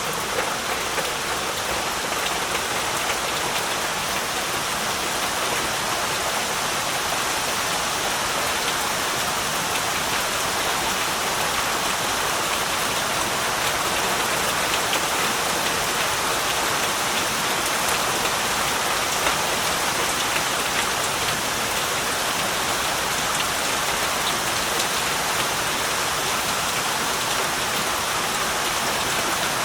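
Heavy rain falling steadily, a dense even hiss of drops with fine patter and no change in strength.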